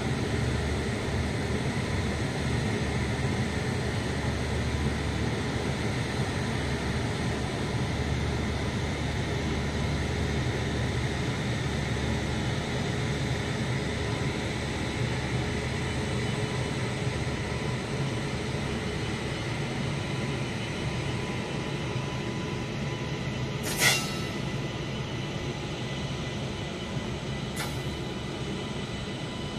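WAG-9HC electric locomotive and its passenger coaches pulling slowly out of a station: a steady rumble of wheels on rail with a faint steady whine, easing a little toward the end. Once, late on, a brief sharp squeal stands out.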